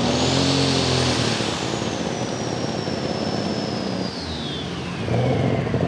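Super stock pulling tractor's turbocharged engine running hard. About a second in, its engine note falls away, leaving a high turbocharger whine that slides steadily down in pitch over several seconds as it spools down.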